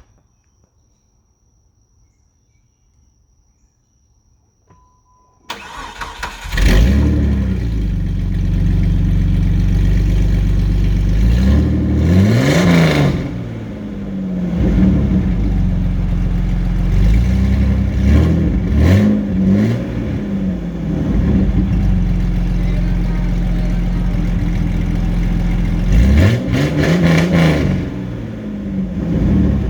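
Jeep engine cold started: after a few seconds of near quiet, the starter cranks briefly and the engine catches about six and a half seconds in, then runs loud and is revved up and back down three times.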